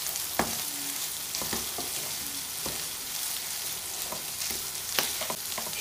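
Chicken livers sizzling in hot olive oil in a frying pan over high heat, stirred with a wooden spoon that now and then scrapes and knocks against the pan.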